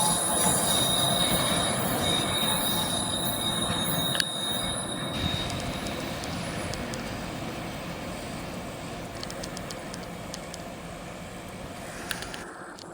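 A train rolling past on the rails, its wheels squealing with high steady tones for the first few seconds, then the rumble slowly fading as it moves away.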